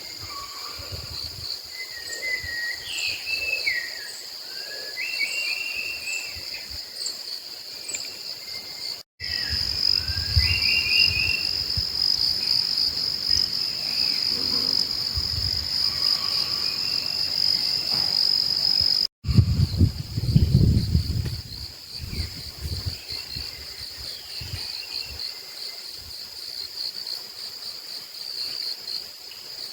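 Rainforest ambience: a steady high-pitched chirring of insects, with short whistled bird calls over it in the first half. The sound drops out abruptly twice, about nine and nineteen seconds in, and low thumps come after each dropout.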